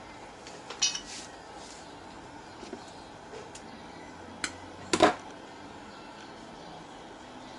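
Light metallic clinks and knocks from tools or small parts being handled on a workbench: a short cluster about a second in, a sharp click near the middle, and the loudest knock about five seconds in.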